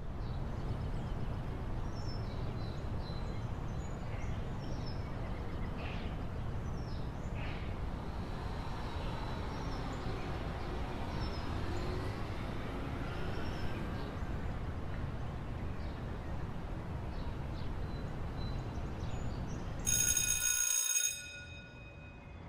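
Steady low background rumble with faint short high chirps scattered through it. Near the end a bright ringing tone sounds for about a second and cuts off sharply.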